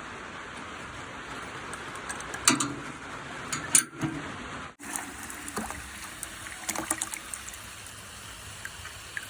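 Water from a hose running steadily into a horse's water bucket as it is filled, with a couple of sharp knocks and a brief break about halfway.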